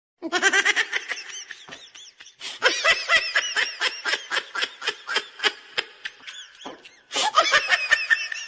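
High-pitched laughter: a rapid run of short, squeaky, rising-and-falling notes, several a second, with a brief pause near the end.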